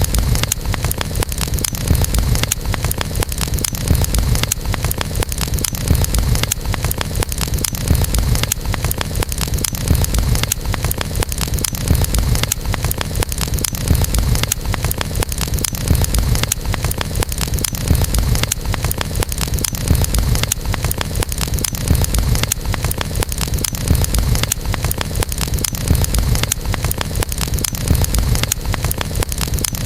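Wood campfire burning, with dense constant crackling over a steady low rumble that swells gently about every two seconds.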